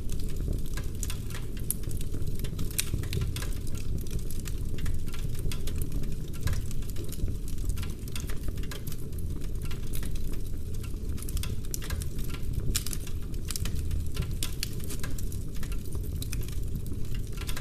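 Wood fire burning in a fireplace, crackling steadily with frequent sharp pops over a low rumble.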